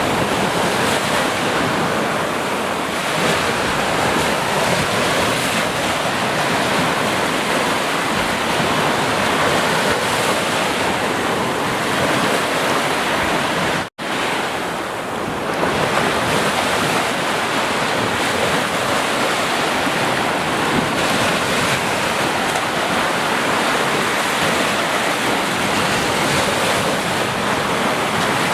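Sea waves washing steadily onto the shore, with a split-second dropout to silence about halfway through.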